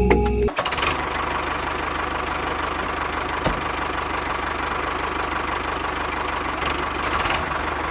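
A small motor running steadily with a faint even whine, after background music cuts off about half a second in.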